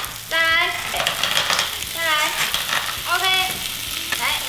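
Clams in their shells frying and sizzling with garlic and scallion whites in a hot frying pan, stirred with a wooden spatula. Three short pitched sounds rise over the sizzle, the first and loudest about half a second in.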